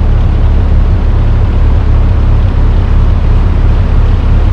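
A barge's engine running steadily while under way, a constant low rumble with no change in speed.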